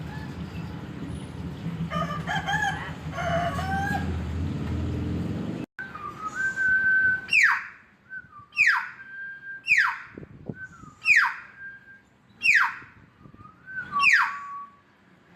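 Hill myna calling: after some mixed calls, it gives a loud whistle ending in a sharp downward sweep, repeated about every second and a half.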